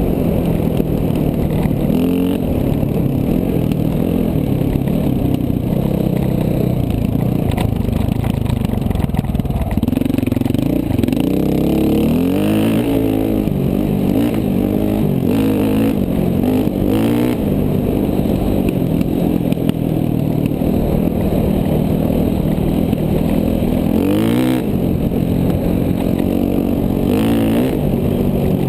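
KTM 450 dual-sport motorcycle's single-cylinder four-stroke engine under way, revving up and down with the throttle. The pitch climbs and drops several times in quick succession about a third of the way in, and again with one sharp rise a little past the middle of the later part.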